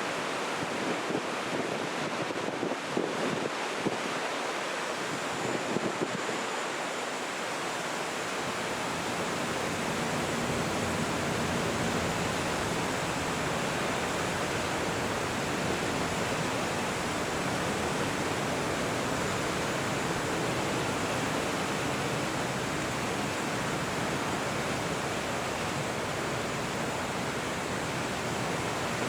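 Steady rushing of wind and water, with wind buffeting the microphone in uneven gusts during the first several seconds.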